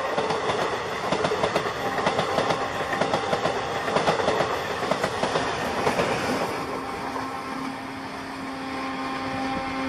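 Passenger train coaches passing at speed close by, the wheels clattering over the rail joints in irregular clicks. The clatter fades about six seconds in, and a steady pitched tone sounds toward the end.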